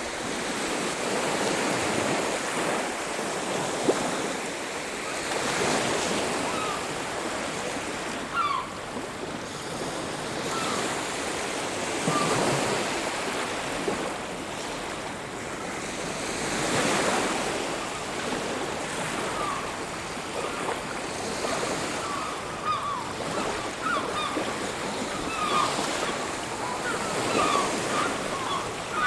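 Sea waves washing onto a beach, the surf swelling and falling back every few seconds, with brief faint high-pitched calls in the second half.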